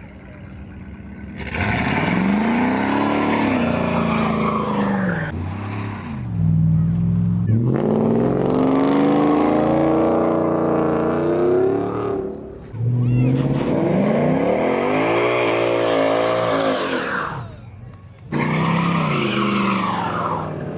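A car engine revving hard in four long surges, its pitch climbing and falling in each, with short drops in between.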